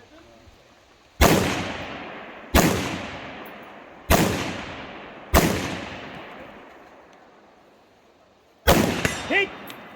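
Five rifle shots fired in an IPSC rifle stage, the first four about a second and a half apart and the fifth after a pause of about three seconds. Each shot trails off in a long echo.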